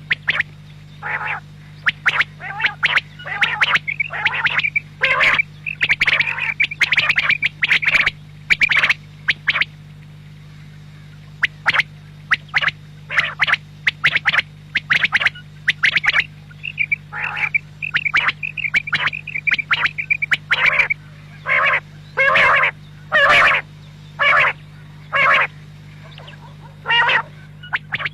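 Quail calling again and again in quick series of short, sharp notes, with a short pause about a third of the way through, over a steady low hum.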